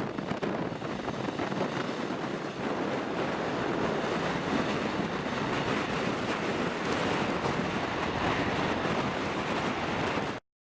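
Jet airliner engine roar mixed with wind buffeting the microphone, a steady rushing noise that cuts off suddenly near the end.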